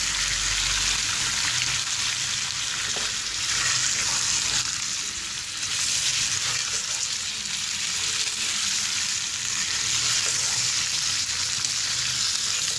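Chicken pieces and raw sliced onions sizzling in hot oil in a kadai while being stirred and turned with a spatula. The steady frying hiss swells now and then as the pieces are turned over.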